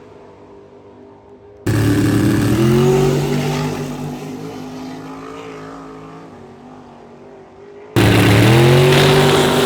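Drag race car engines at full throttle launching off the line, the pitch climbing and then holding as the car pulls away and fades. A fainter engine running steadily at first; the sound jumps abruptly twice, about two seconds in and near the end, each time to a fresh loud launch.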